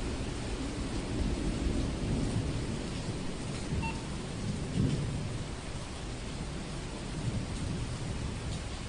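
Heavy rain falling steadily while thunder rumbles low underneath, the rumble swelling to a peak about five seconds in and then easing off.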